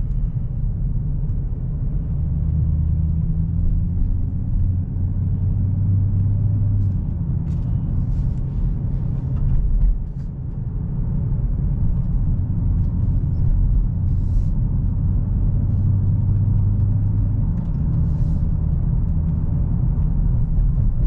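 In-cabin rumble of a 2022 Dodge Challenger Hellcat's 6.2-litre supercharged V8 and its tyres while driving, a low steady drone whose engine hum rises and falls, easing briefly about halfway through. A few faint clicks are scattered through it.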